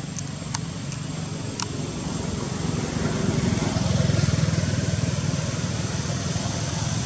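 Low engine rumble that swells to its loudest around the middle and then eases a little, with a few sharp clicks in the first two seconds.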